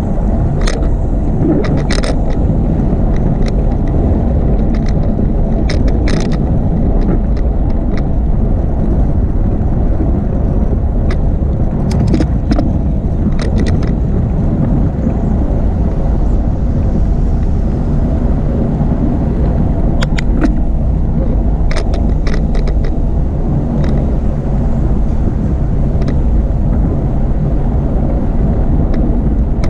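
Steady low rumble of wind and rolling noise on a camera riding on a moving bicycle, with scattered sharp clicks and rattles.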